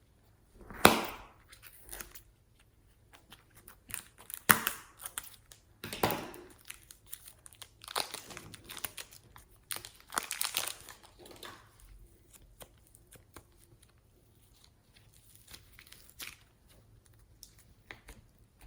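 Crinkly plastic packaging being handled and torn open, in irregular sharp rustles and crackles that are loudest about a second in and again around four and a half seconds in.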